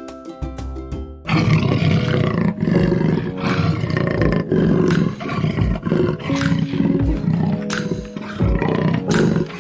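Big cat roaring, a series of rough calls starting about a second in, over soft background music.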